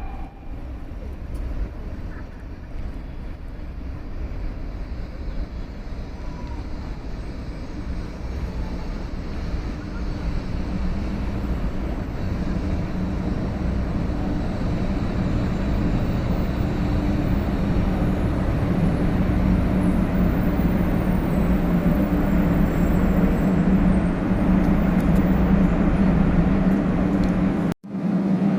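Shinkansen bullet train approaching, its running noise with a steady low hum growing gradually louder; the sound cuts off abruptly near the end.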